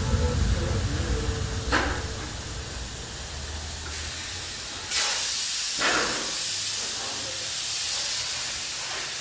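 A steady hiss, like a spray or air jet, over a low rumble, with a louder surge about five seconds in.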